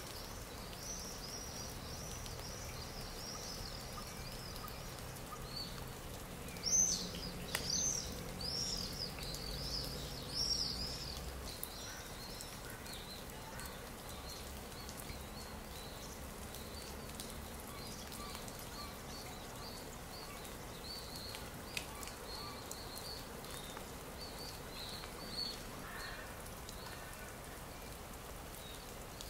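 Stock nature-sound recording of small birds chirping: a steady run of short, high chirps, with a louder burst of calls about seven to eleven seconds in, over a soft, even background hiss.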